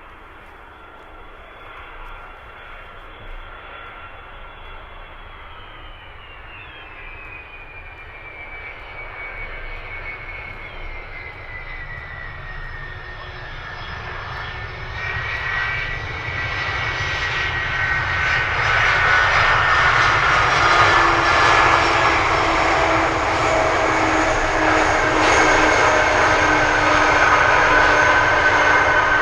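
Jet airliner's engines growing steadily louder as the plane approaches, with a whine that falls in pitch over the first several seconds, building into a loud, steady roar with whining tones for the last ten seconds or so.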